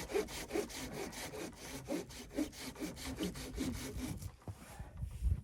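Hand saw cutting through wood in quick, even back-and-forth strokes, about five a second, stopping about four seconds in; a low thump follows near the end.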